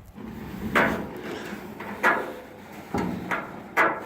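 Crumpled, rusty steel stock tank knocking and clanking as it is handled and moved: four sharp hits roughly a second apart, with scraping between them.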